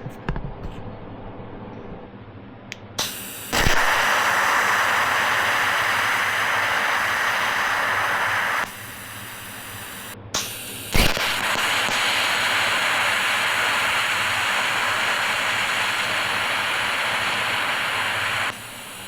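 TIG welding arc running in two steady hissing passes of about five and seven seconds, each starting with a sharp crack and cutting off abruptly.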